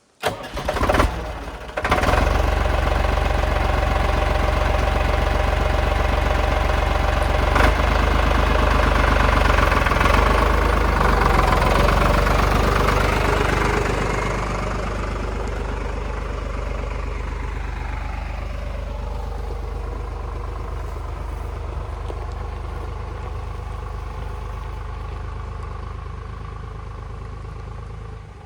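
Tractor engine being started: a brief stuttering crank, catching about two seconds in, then running steadily. It runs louder at first and settles to a lower, even idle about halfway through.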